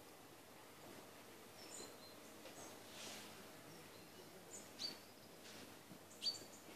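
Faint, scattered high chirps from small songbirds, with two louder sharp call notes about five and six seconds in, over a quiet background hiss.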